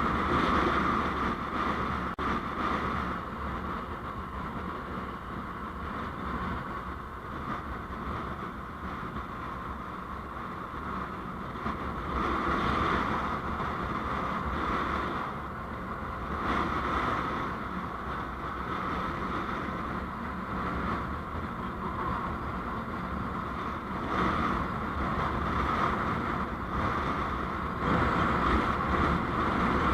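Steady road and wind noise from a moving vehicle, swelling and easing every few seconds.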